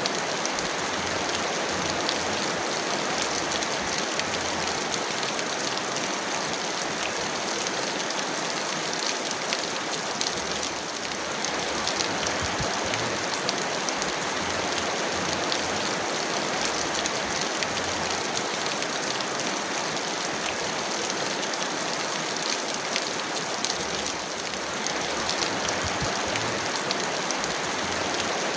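Heavy rain falling steadily: a dense, even hiss of water with many small, sharp drop hits scattered through it.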